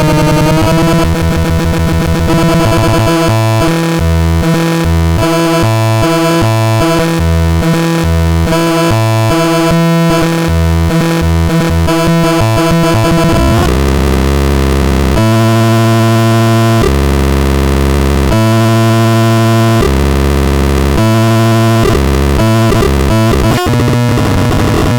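MATRAXON C1 electronic synthesizer playing loud, harsh, sequenced tones with rapidly pulsing bass notes. About halfway through, the pattern changes to slower, longer low bass notes under buzzing higher tones.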